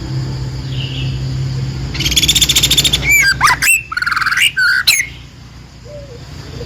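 A songbird singing: a loud, rapid buzzy trill about two seconds in, then a quick run of sweeping whistled chirps that stops about five seconds in.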